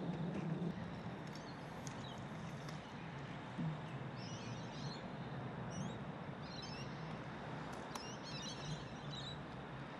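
Birds chirping in several short bursts, mostly in the second half, over a steady low background rumble.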